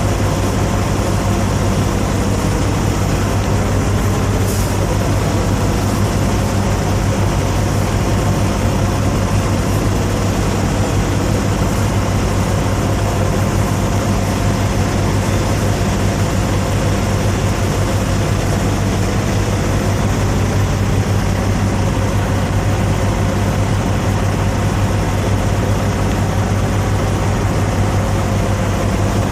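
Steady low drone of idling diesel semi-truck engines.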